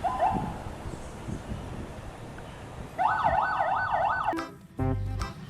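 A police-car siren yelping: a fast up-and-down wail of about four cycles a second. It starts about three seconds in and cuts off a little over a second later.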